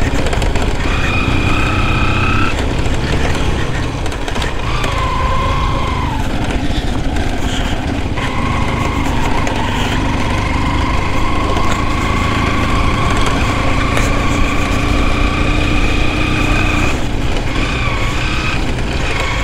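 Motorcycle engine running steadily while riding, with wind rumbling on the microphone; the engine note rises slowly through the middle as the bike picks up speed.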